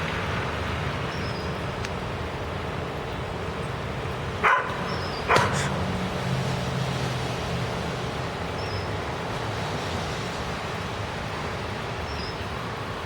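A dog barks twice, just under a second apart, over a steady rushing background noise.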